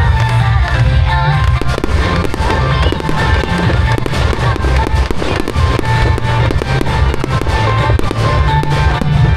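Fireworks bursting and crackling in quick succession, many sharp bangs over loud music with a heavy bass beat.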